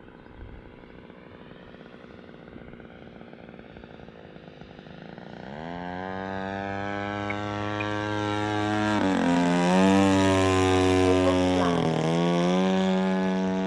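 EME60 single-cylinder two-stroke gas engine of a giant-scale RC warbird, running at reduced throttle in flight. Faint at first, it grows much louder from about five seconds in as the plane comes closer, with two brief dips in pitch near the end.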